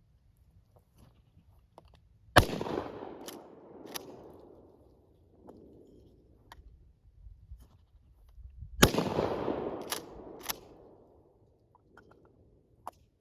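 Two 12-gauge shotgun shots from a Mossberg 590 pump-action firing birdshot, about six seconds apart, each blast dying away in an echo over a second or so. After each shot come two sharp clacks, the pump worked back and forward to chamber the next shell.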